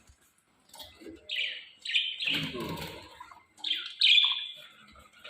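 Pet parrots calling with harsh, raspy screeches: several short calls, the loudest about two seconds in and again about four seconds in.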